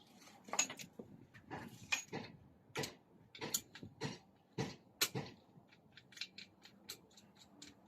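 Metal tools and engine parts clicking and knocking as the oil pump is fitted to a Ford 1.0 EcoBoost engine: irregular sharp knocks through the first half, then a quicker run of lighter ticks, about four a second.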